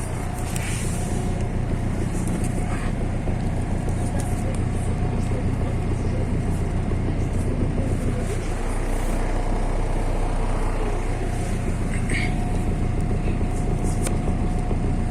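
MAZ-103 city bus heard from inside while riding: a steady low engine drone and road noise, with a faint steady whine and scattered light rattles and clicks.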